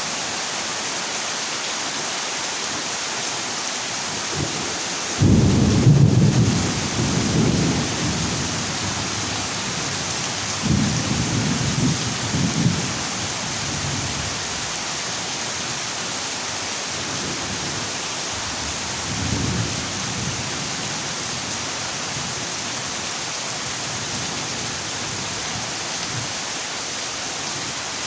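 Heavy rain falling steadily on a zinc roof, with rolls of thunder rumbling over it: a loud peal about five seconds in, another around eleven seconds, and a fainter one near twenty seconds.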